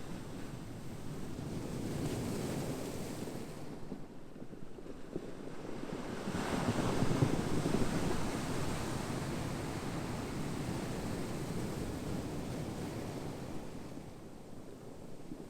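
Ocean waves washing onto a shore: a smaller swell early on, then a bigger wave surging in about six seconds in and slowly receding.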